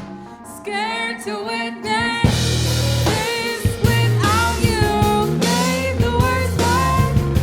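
Live band playing a song: after a brief drop-out the voice sings alone over a sparse backing, then the drums, bass and guitar come back in full a little over two seconds in.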